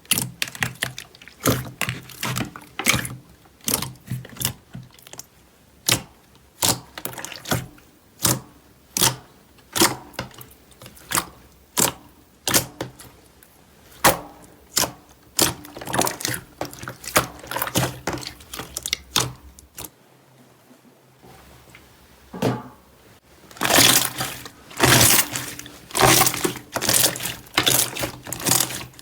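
Slime being pressed and poked, giving sharp wet clicks and pops about two or three a second. After a short pause about two-thirds of the way in, a louder, denser run of crackling, squishing sounds follows.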